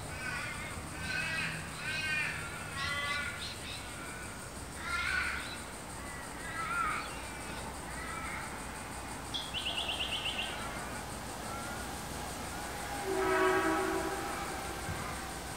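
Wild birds calling around a still swamp: a run of repeated calls over the first seven seconds, a quick pulsing trill about ten seconds in, and a longer held call with several overtones near the end.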